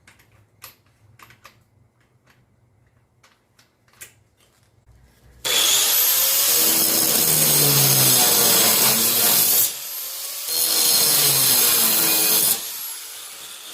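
A few light clicks of handling, then an angle grinder with a cutting disc spins up with a rising whine and cuts into a steel chain link. It eases off briefly, cuts again, then winds down near the end as the link is cut through.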